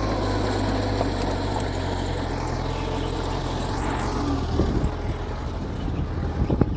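Mitsubishi bulldozer's diesel engine running steadily, with a few sharp knocks in the last two seconds.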